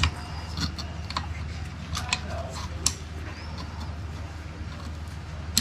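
Irregular light clicks and taps of hands working on car parts, about half a dozen spread through, over a steady low hum.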